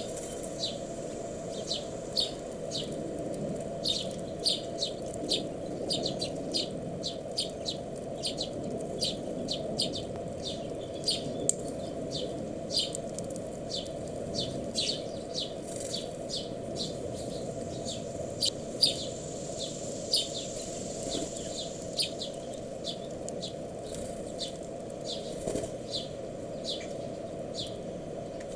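Small wild birds chirping: many short, sharp chirps, several a second, over a steady low hum.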